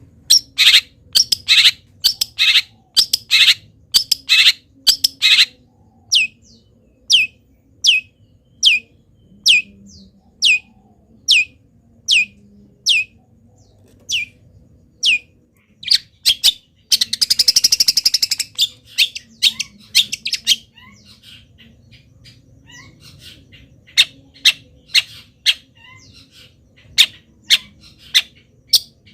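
Long-tailed shrike (cendet) singing a varied medley of mimicked wild-bird calls. It opens with harsh repeated squawks about twice a second, then gives a long run of short downward-sweeping whistles. Midway comes a brief fast buzzy rattle, and sharp calls return near the end.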